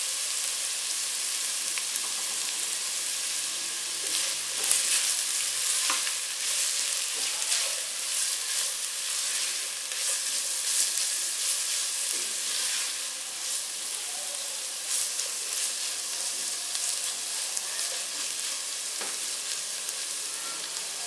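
Shredded boiled chicken, julienned green capsicum and grated carrot sizzling in oil in a non-stick pan, a steady hiss. From about four seconds in, a spatula scrapes and tosses them with repeated scrapes and knocks against the pan.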